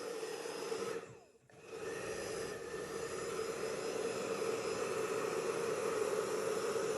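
Handheld hairdryer running on its slow, cold setting, a steady fan hum and rush of air blowing out poured acrylic paint. The sound drops away briefly about a second in, then comes back.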